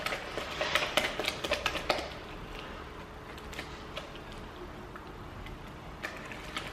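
Slime mixture being stirred in a bowl just after activator is added: a utensil scraping and clicking against the bowl. The clicks come thick for the first two seconds, thin out to occasional taps, then pick up again near the end.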